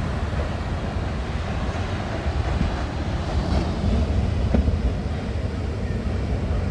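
Wind buffeting the microphone as a steady low rumble, over an even outdoor hiss.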